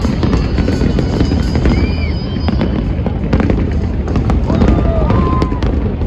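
Fireworks bursting in rapid succession, a dense run of bangs and crackles over a low rumble, with music playing along.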